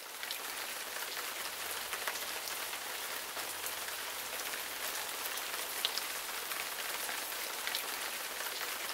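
Shower running: a steady hiss of water spraying and pattering.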